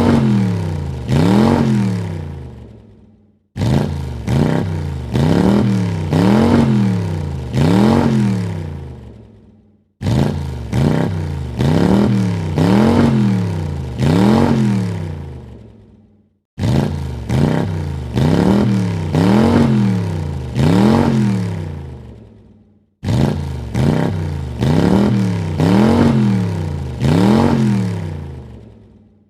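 Car engine revved in quick blips, four in a row, each rising and falling in pitch, then dying away. The same sequence starts again sharply about every six and a half seconds.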